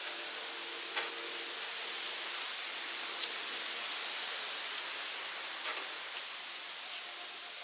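Steady hiss, with a few faint clicks about one, three and nearly six seconds in.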